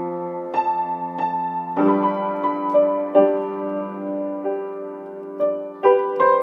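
Slow, gentle piano-like keyboard music: sustained chords and single notes struck every half second to second or so.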